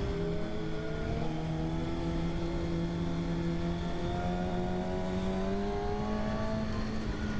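Motorcycle inline-four engine of a Kawasaki Ninja ZX-6R running under load. Its pitch drops right at the start, then climbs slowly and steadily, with wind rushing over the microphone underneath.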